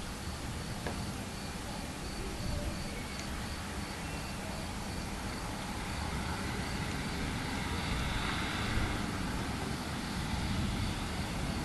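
Crickets chirping in an even pulsing trill under a steady outdoor hiss, with a rushing, vehicle-like sound that swells a little past the middle and eases off.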